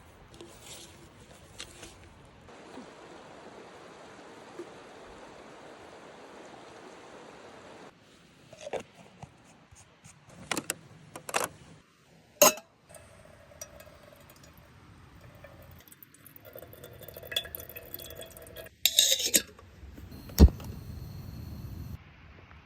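Camp cookware clinking and knocking as tea is made: a series of sharp clinks and taps, the loudest about twelve seconds in, and a dull knock near the end. A faint steady hiss runs under the first few seconds.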